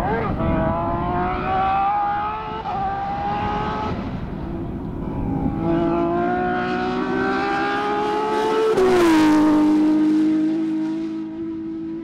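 Rally car engine accelerating hard, its pitch climbing with a gear change about two and a half seconds in, then climbing again. Near the end the pitch drops sharply with a loud noisy burst, and the engine settles to a steady note.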